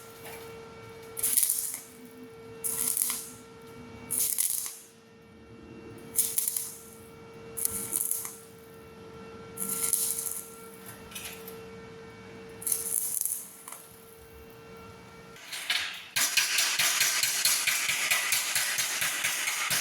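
Stick welding arc on thin galvanized steel pipe, struck in short bursts of about half a second roughly every one and a half seconds, the stop-start way of keeping heat down on thin metal. About sixteen seconds in the arc is held and crackles steadily.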